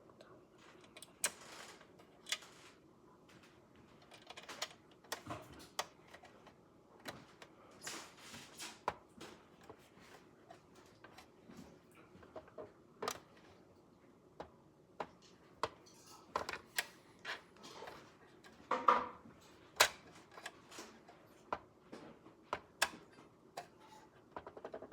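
Scattered light clicks and taps of small screws, parts and a screwdriver being handled during engine assembly, with a louder cluster of knocks about three-quarters of the way through.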